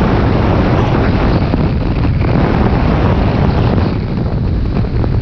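Loud, steady rush of wind buffeting the microphone during a snowboard run downhill, with the board sliding over snow mixed in.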